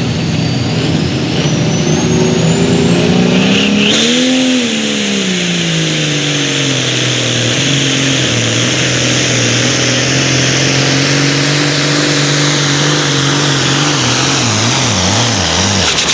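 Pulling vehicle's engine running hard under load on the track, with a high turbo whistle that rises steeply over the first few seconds and then holds. The engine pitch peaks about four seconds in, settles lower and steady, then wavers up and down near the end.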